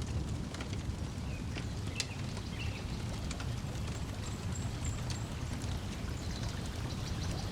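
Layered lakeside ambience: a steady low wash of water lapping and breeze, with scattered crackles of a wood fire and a few brief bird chirps.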